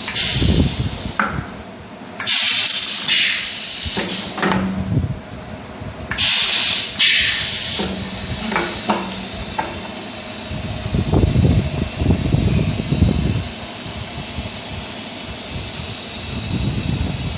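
Pneumatic shaft-pressing machine for ceiling fan stators working: bursts of compressed-air hiss, two long ones about four seconds apart, with shorter hisses and clicks between, over a low rumble.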